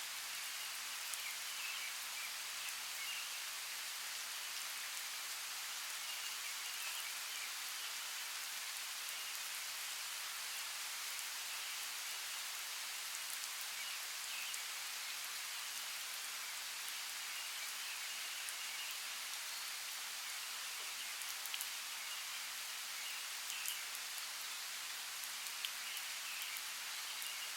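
Steady rainforest rain, an even hiss of rain falling on foliage with scattered louder drop ticks. Faint, intermittent chirping sits in the background.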